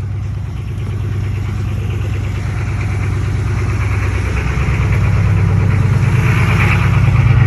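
Truck engine running, a steady low drone that grows gradually louder.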